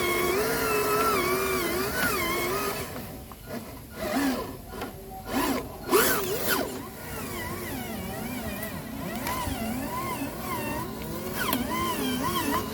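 Electric motors of radio-controlled trucks whining, the pitch wavering up and down with the throttle. About a third of the way in the whine drops away and there are several sharp knocks before it builds again.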